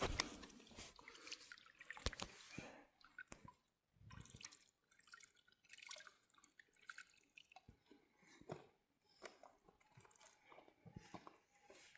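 Near silence with faint, scattered small taps and clicks.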